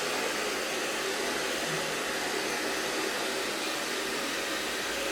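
Handheld hair dryer running steadily: an even rush of blown air with a faint steady motor whine.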